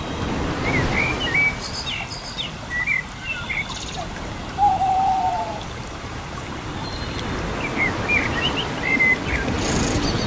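Birds calling: two bursts of short whistled chirps, with a single lower, longer call about halfway through, over a steady hiss.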